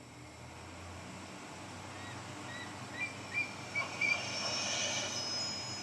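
Outdoor film ambience fading in and growing steadily louder, with a run of short rising bird chirps about two seconds in.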